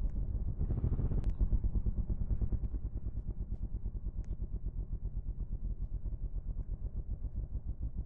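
Dirt bike engine running at low, steady revs: a rapid, even low pulsing, slightly louder in the first couple of seconds.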